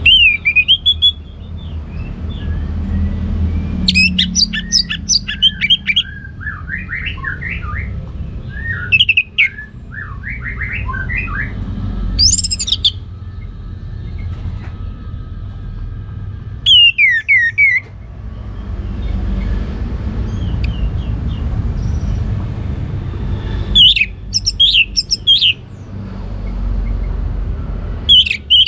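Orange-headed thrush singing its varied full song: about six bursts of quick sweeping whistles and trills, separated by pauses of a few seconds, over a steady low rumble.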